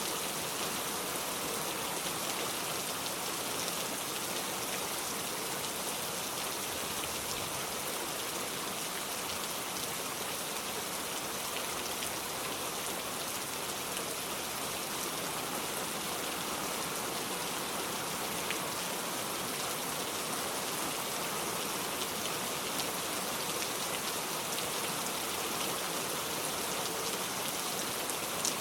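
Steady rain falling, an even hiss with scattered drops landing on a surface.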